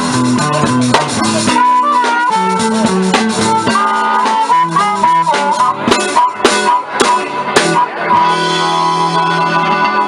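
Live blues band playing an instrumental passage: a guitar lead with bent notes over bass and drums. Near the end the band holds a sustained chord.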